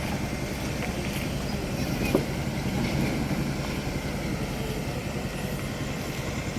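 A heavy diesel engine running steadily, with one short sharp knock about two seconds in.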